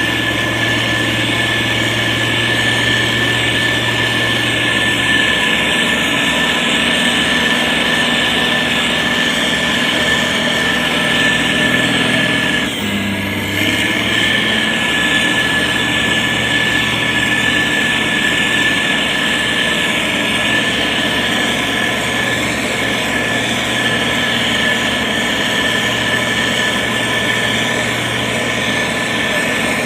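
Heavy construction machinery running steadily, a diesel engine hum with a steady high whine over it, briefly dipping and shifting in pitch about halfway through.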